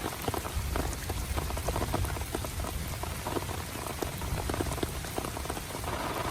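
Rain falling, with many separate drops ticking sharply on a surface close by over a low rumble. Just before the end the sound turns into a steadier, brighter hiss.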